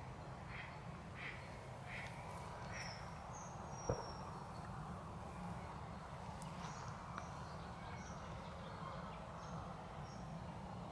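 Outdoor wetland ambience: a bird calls with a short note repeated about every two-thirds of a second for the first few seconds, then gives way to scattered higher chirps, over a steady low rumble. A single sharp click about four seconds in is the loudest sound.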